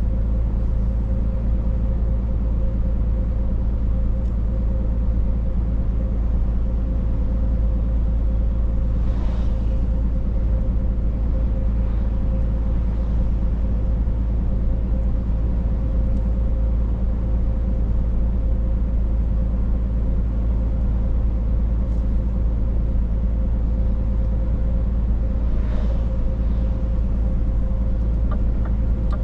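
Scania truck driving at a steady speed: a constant low engine and road drone with a steady whine running through it. Two brief rushing sounds rise over it, about nine and twenty-six seconds in.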